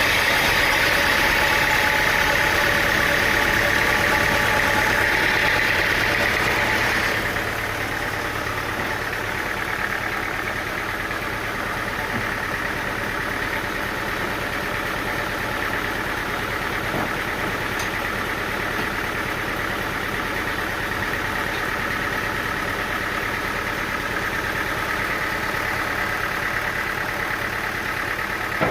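Engine-driven sawmill machinery running steadily. A louder, higher whirr sounds over the engine for about the first seven seconds, then drops away, leaving the steady run.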